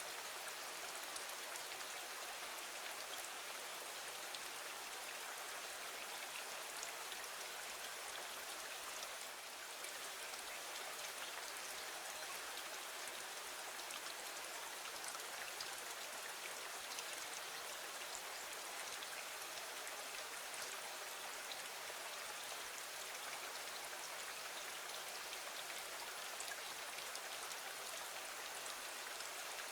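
Steady rain falling against a window: an even hiss of drops with scattered light ticks.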